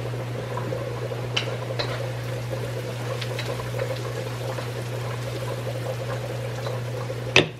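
Onion and garlic sizzling in hot oil in a wok as it is stirred with a wooden spatula, over a steady low hum. A single sharp knock comes near the end.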